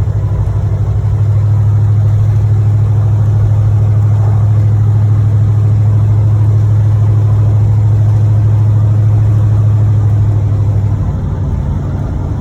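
1986 Chevrolet Monte Carlo SS's 355 small-block V8 running while the car is driven, a loud, steady low drone that eases off near the end. The engine has a knocking connecting rod in its bottom end.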